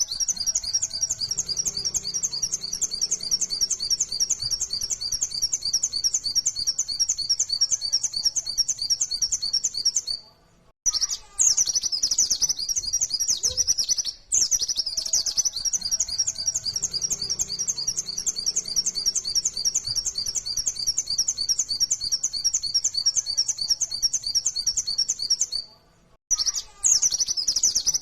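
Pleci (white-eye) singing its rapid, high 'nembak' song: long runs of fast twittering, each broken off by a short pause before it starts again.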